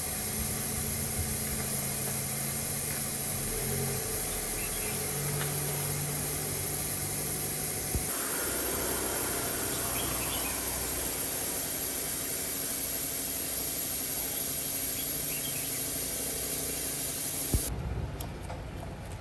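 A motor-driven workshop machine running steadily with a high whine and a low hum; its sound changes about halfway through, and it is switched off abruptly near the end with a knock.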